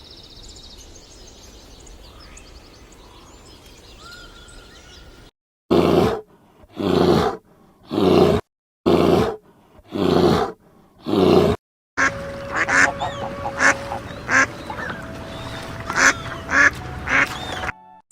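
Animal calls: after a few quiet seconds, six loud, harsh calls about a second apart, then a busier run of many short calls and chirps.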